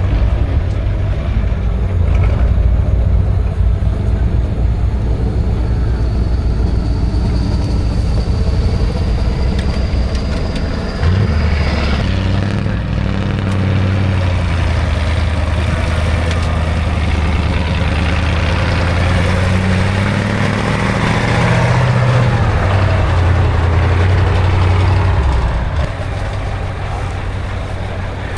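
Heavy off-road trial truck's diesel engine labouring under load. A thin high whine rises slowly through the first half. The engine note climbs and falls again about two-thirds of the way through, then drops back near the end.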